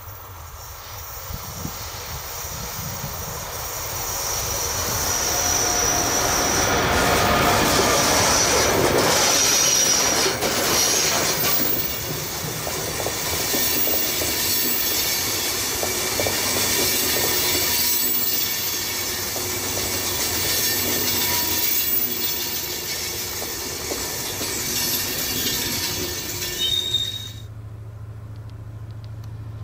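Locomotive-hauled train of new Czech Railways InterJet passenger coaches passing close by at speed. It swells as the locomotive approaches, then keeps up a steady rush and clatter of wheels on rail as the coaches go by. The sound drops suddenly near the end to a quieter steady hum.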